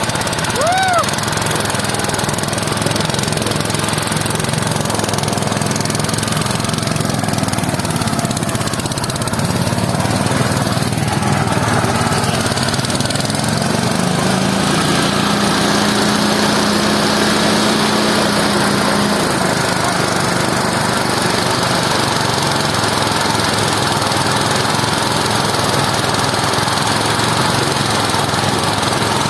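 Engine of a rice harvesting machine running steadily, its pitch wavering slightly as the load changes. A short rising-and-falling whistle-like call sounds about a second in.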